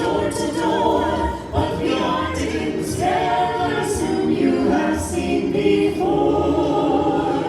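Choir singing a cappella, several voices holding sustained notes in changing phrases.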